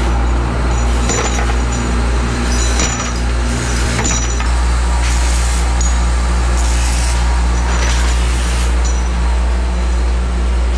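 Workshop machinery running with a steady low motor hum, overlaid by short noisy strokes every second or two.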